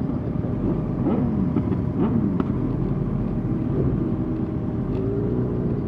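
Motorcycle engines running in a slow-moving group over a steady low rumble, with revs rising and falling, most clearly about one to two seconds in.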